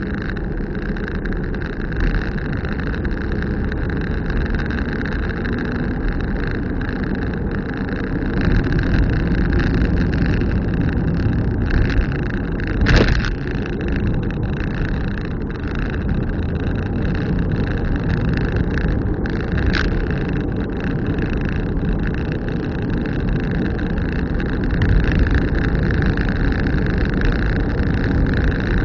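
Car driving along a road: steady engine and tyre noise, with two brief knocks about halfway through and again a few seconds later.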